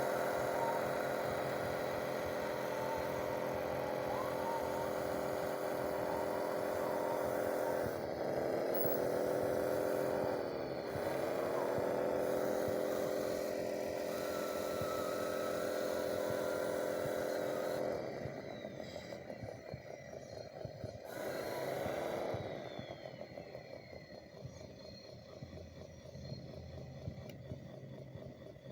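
Small electric motor of an RC construction machine whining steadily, its pitch sagging briefly under load twice and then recovering. About two-thirds of the way through it drops off to a much quieter run, dips once more, and fades away.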